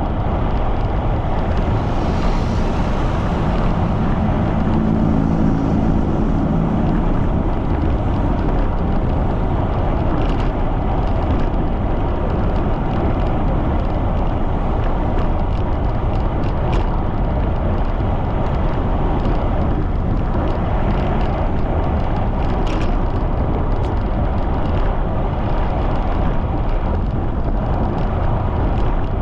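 Strong wind buffeting the microphone of a moving bicycle, a steady low rush of noise with a few scattered clicks. A low engine hum rises through it briefly about four to seven seconds in.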